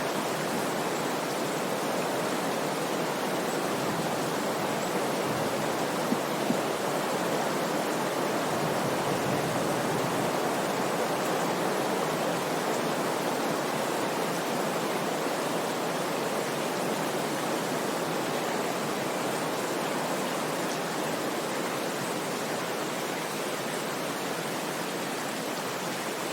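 Glymur waterfall's falling water rushing steadily.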